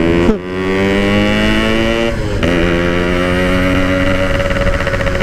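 Two-stroke Yamaha RX-King motorcycle engine pulling under acceleration through a tin exhaust. Its pitch rises for about two seconds, drops with a brief gap at a gear change just after two seconds in, and then climbs slowly again in the next gear.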